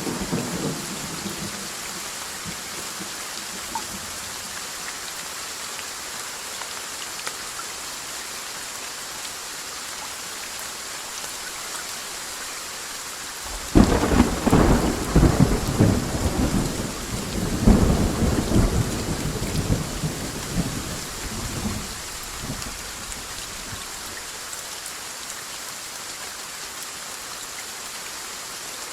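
Steady rain with rolling thunder. A rumble fades out in the first second; about halfway through, a sudden thunderclap breaks and rumbles on in waves for about eight seconds before dying away under the rain.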